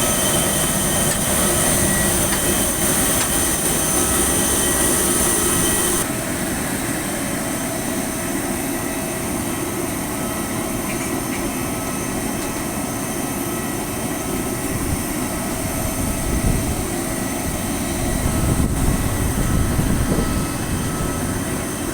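Airliner engines running at a steady whine, with several constant tones; the high whine drops off abruptly about six seconds in.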